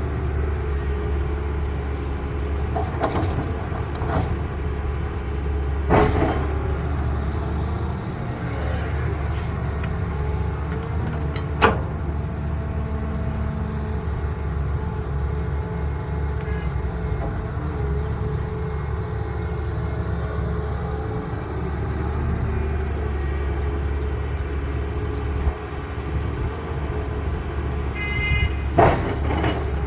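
Heavy diesel engines of an excavator and dump trucks running steadily, with a few sharp metal clanks and a brief high-pitched beep near the end.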